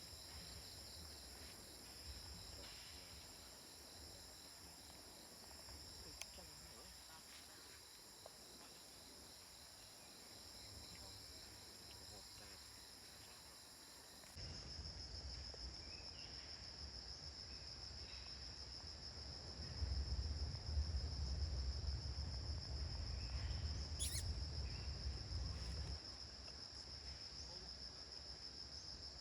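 A chorus of insects chirring steadily in a high pitch. A low rumble joins about halfway through and is loudest for several seconds near the end.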